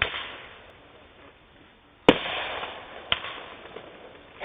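Fireworks bursting: three sharp bangs, one right at the start, the loudest about two seconds in and a smaller one a second later, each trailing off over about a second.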